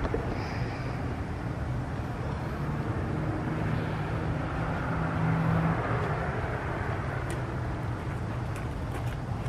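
Steady outdoor background rumble, with a low hum that holds for a couple of seconds in the middle.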